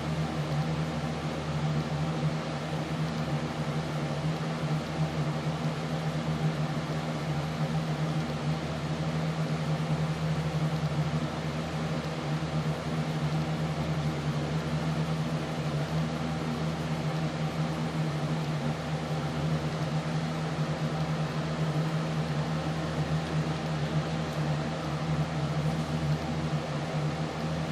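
A steady mechanical hum with a low droning tone and an even hiss, unchanging throughout.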